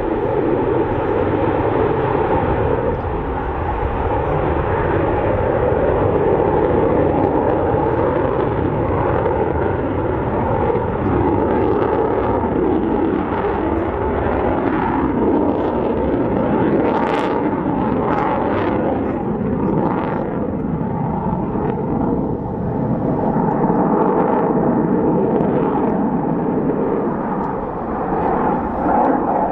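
Dassault Rafale fighter jet's twin M88 turbofan engines running loud and steady during its display flight.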